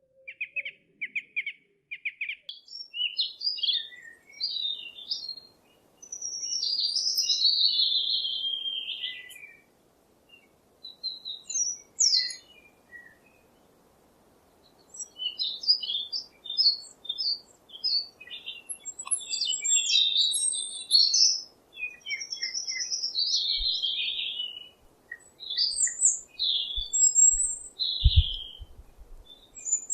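Songbirds singing, with chirps and warbled phrases coming one after another over a faint steady hiss. A few brief low thumps come near the end.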